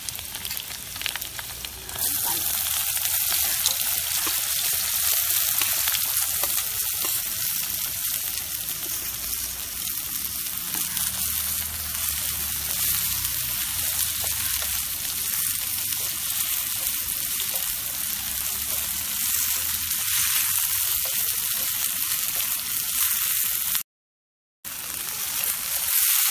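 Hot oil sizzling in an iron kadhai with cumin, garlic and asafoetida, then a louder, dense frying hiss from about two seconds in as sliced onions fry in the oil and are stirred with a spatula. The sound cuts out for a moment near the end.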